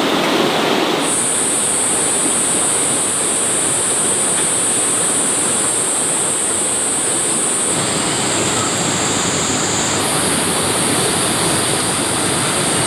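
Steady rush of heavy water, with a thin high-pitched whine over it that starts about a second in and shifts pitch twice.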